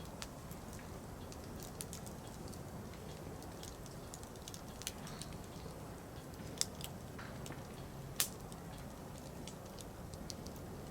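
Firewood burning in a campfire, crackling: a steady low hiss and rumble with scattered small snaps, and two louder pops about two thirds of the way through.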